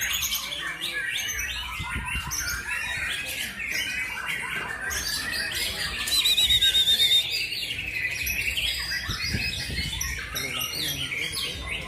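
Many caged songbirds singing at once, chiefly white-rumped shamas (murai batu): a dense mix of whistles and chatter. A loud, rapid trill comes about six seconds in and lasts about a second.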